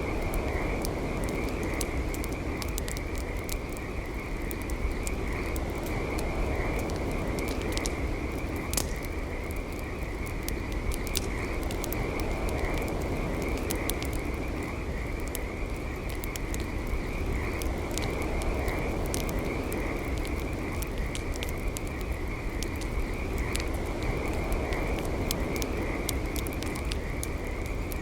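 Campfire crackling with frequent sharp pops. Underneath runs a steady high-pitched pulsing chorus of calling creatures, along with a low steady rush.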